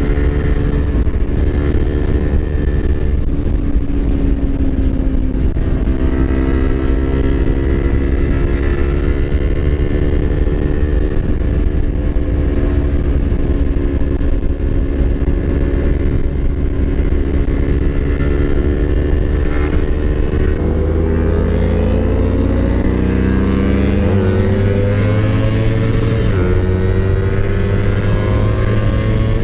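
Yamaha R25's parallel-twin engine running as the motorcycle is ridden, with wind noise on the mic. Its pitch holds fairly steady, then rises from about twenty seconds in as the bike accelerates, with brief breaks in the note near the end.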